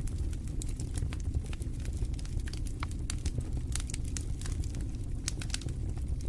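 Wood fire burning in a fireplace: a low steady rumble of the flames with frequent sharp, irregular crackles and pops.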